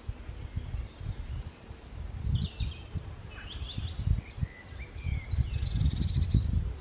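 Small birds calling and singing: short chirps and quick runs of notes starting about two seconds in, over a louder, gusty low rumble.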